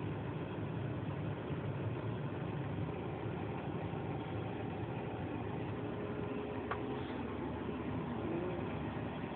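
Grain combine harvester running steadily at work, its engine and machinery making an even low drone.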